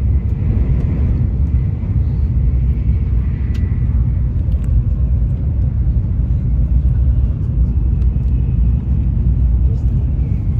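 Steady low rumble of a Tokaido Shinkansen bullet train running at speed, heard from inside the passenger cabin.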